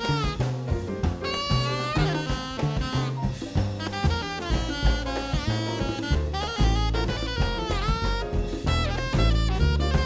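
Live jazz band playing: a saxophone leads with a quick melodic line full of bends and slides, over bass and drum kit.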